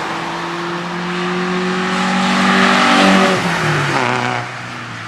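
Honda D16Y8 1.6-litre SOHC VTEC four-cylinder through an axle-back 1 7/8-inch straight pipe, with no muffler. The engine revs up over about three seconds, then drops back and quietens near the end.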